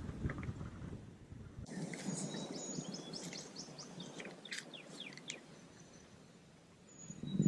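Wild birds chirping, a run of quick high downward-sweeping chirps in the middle with a thin whistled note near the end, over a steady outdoor hiss. A low rumble of wind on the microphone opens the sound and stops abruptly under 2 seconds in.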